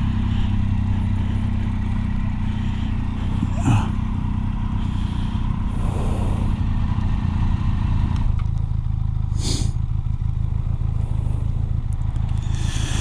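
Motorcycle engine running at low speed, steady, settling to a lower note about eight seconds in as the bike slows.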